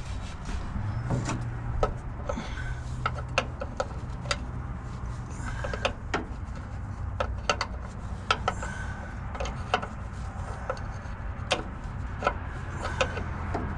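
Irregular metallic clinks and knocks of wrenches on engine fuel-line fittings, some with a short ring, over a steady low hum.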